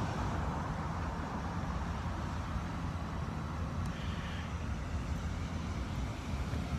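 Steady low rumble of a slow-moving line of cars and trucks driving past.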